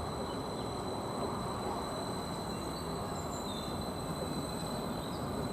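Greater Anglia Class 755 bi-mode multiple unit running at the station: a steady rumble with a faint, steady high whine above it.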